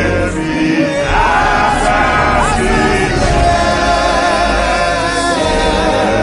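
Gospel choir singing a song with instrumental backing and a strong bass line.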